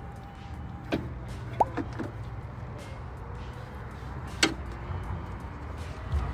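A steady low rumble with a few sharp clicks or knocks: one about a second in, and a louder one a little past four seconds. There is also a brief, short tone shortly after the first click.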